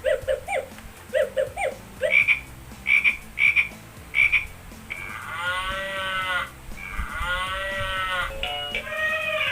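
Recorded animal sound effects played one after another, as in a press-button sound game: a frog croaking in short repeated calls for the first four seconds or so, then two long cow moos, with another animal call beginning near the end.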